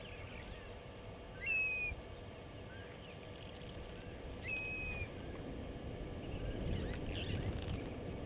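A bird gives two clear whistled notes about three seconds apart, each a quick upslur into a held, slightly falling tone about half a second long, with faint chirps of other birds over a low rumble that grows louder in the second half.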